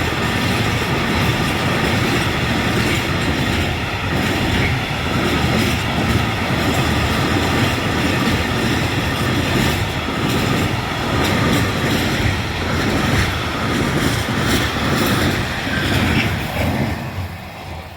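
Container freight wagons rolling past at speed, with a continuous clatter of wheels on rail and a thin steady ringing tone above it. The sound falls away near the end.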